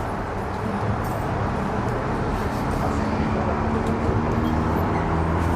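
Vintage electric tram under way: a steady low running rumble, with the traction motors' hum rising slowly in pitch from about halfway through as the tram picks up speed.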